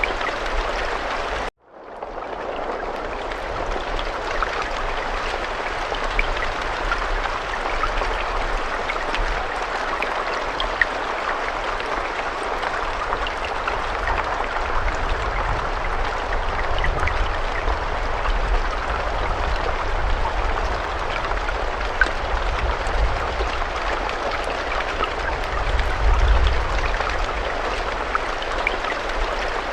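Steady rainfall, a dense even hiss with scattered drops ticking through it. About a second and a half in, the sound cuts out completely for a moment and then fades back in. A low rumble lies underneath and swells briefly near the end.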